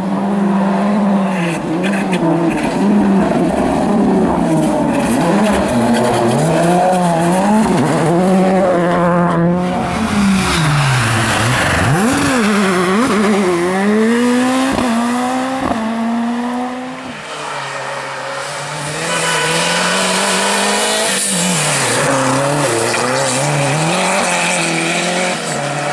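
Rally car engine revving hard, its pitch climbing through the gears and dropping sharply on lifts and downshifts, over and over as the car is driven flat out along the stage.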